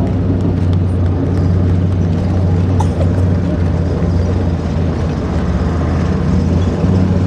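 Engines of heavy military vehicles running in a steady, loud, low drone as they drive past.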